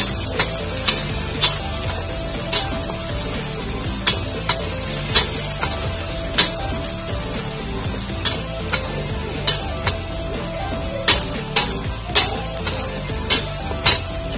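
Blended spice paste sizzling in hot oil in a metal wok while a metal spatula stirs it, clacking and scraping against the pan every half second to a second. The paste is being sautéed until fragrant.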